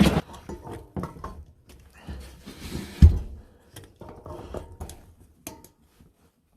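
Handling noise in a small cabin: scattered knocks, clicks and thuds of things being moved and set down, with one heavy thud about three seconds in.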